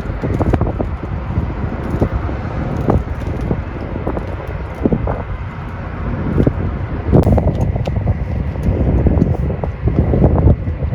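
Strong gusting wind blowing across the microphone: a heavy, uneven rumble that swells and eases, with scattered short clicks.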